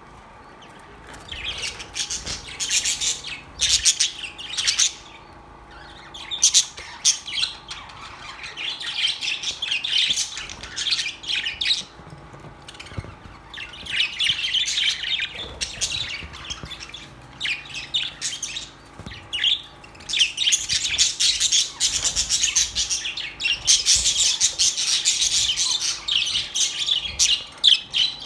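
A flock of budgerigars chattering, with rapid chirps, warbles and squawks overlapping in waves that swell and ease every few seconds.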